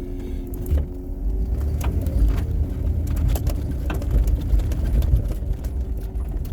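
Low, steady rumble of a snowplow vehicle driving, with scattered knocks and clicks.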